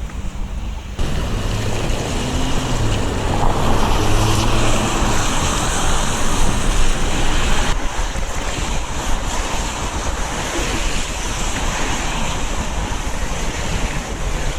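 Steady wind rushing over the microphone of a camera carried on a moving bicycle, a dense noise with a low hum under it in the first few seconds.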